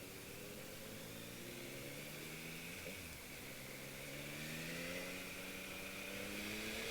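Yamaha MT-series motorcycle engine on its stock exhaust, pulling up through the revs. The pitch rises steadily, dips once about three seconds in as it shifts up a gear, then climbs again.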